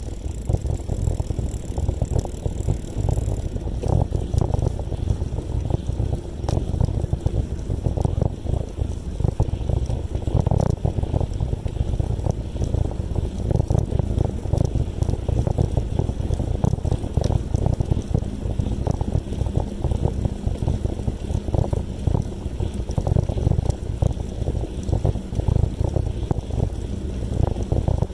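Wind buffeting the microphone of a moving bicycle rider, a steady low rumble that flutters in strength.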